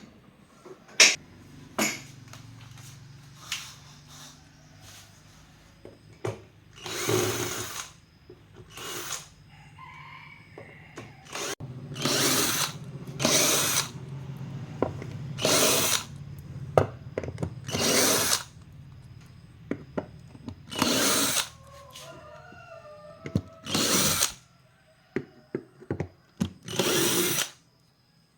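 Power drill or driver running in about nine short bursts of roughly a second each, a few seconds apart, with small clicks in between and a faint steady low hum underneath.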